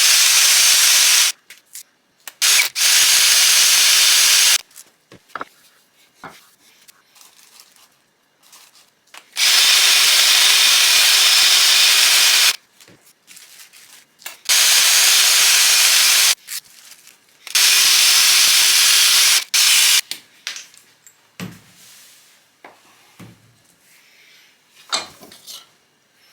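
Grinder with a sanding disc run in five short bursts of two to three seconds each against a ball-peen hammer head, a steady motor whine under the loud rasping, with quieter knocks and handling between bursts.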